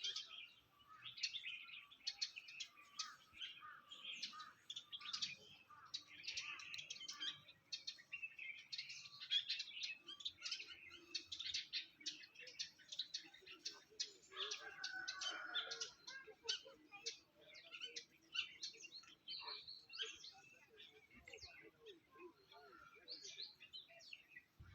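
Several small birds chirping and twittering at once, a dense chorus of short, high calls.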